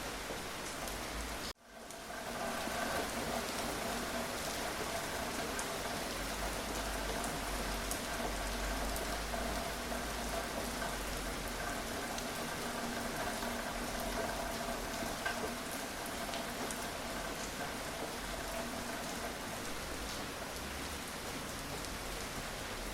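Steady rain falling, with scattered drops ticking on a surface. About a second and a half in, the sound cuts out for an instant and then fades back up.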